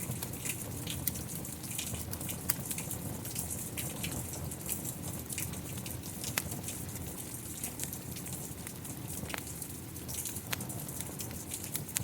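Rain falling steadily, mixed with a wood fire crackling, its many sharp pops and snaps scattered irregularly over the rain.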